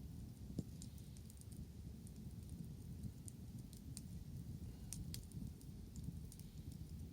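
Wood bonfire crackling: scattered sharp pops and ticks, irregular, over a steady low rumble.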